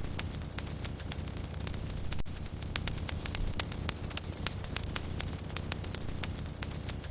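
Wood fire in a fireplace crackling: many quick, sharp pops and snaps scattered over a steady low rumble of the flames.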